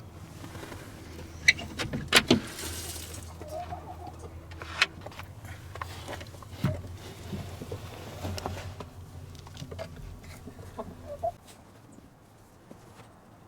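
Hens clucking now and then, with several sharp clicks and knocks, the loudest a cluster about two seconds in.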